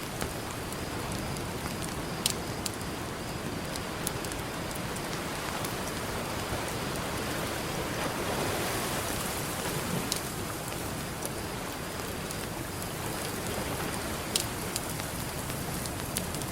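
Campfire crackling with scattered sharp pops over a steady wash of ocean surf, which swells once about halfway through.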